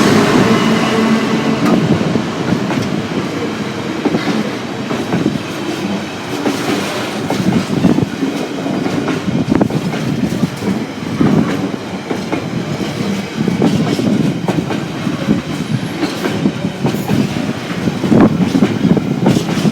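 Freight train passing close by, its wagons rolling past with a steady rumble and irregular clattering clicks from the wheels, without sounding its horn.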